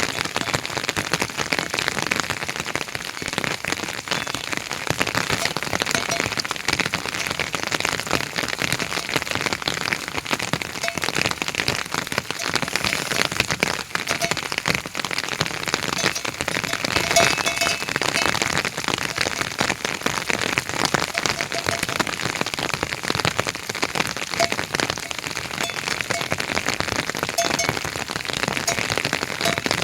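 Heavy rain falling steadily, with a dense noise of drops that does not let up.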